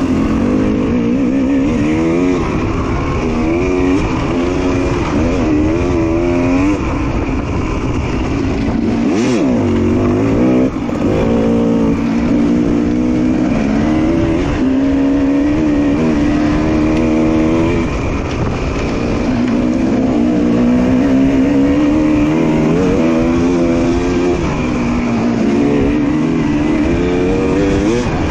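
Two-stroke dirt bike engine running hard on a trail, its pitch rising and falling over and over with the throttle, with a brief drop about ten seconds in.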